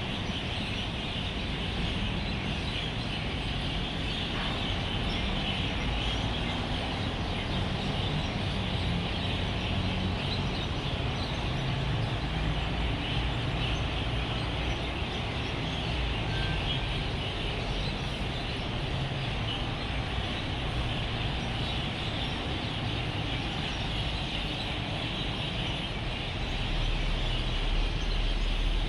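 Massed chirping of a large flock of birds gathered at their evening roost, steady throughout, over the low rumble of road traffic that grows louder near the end.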